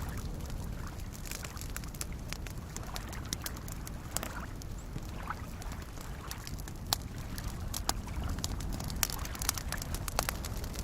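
Campfire crackling, with scattered sharp pops and snaps, over the steady low wash of small waves lapping at a lakeshore.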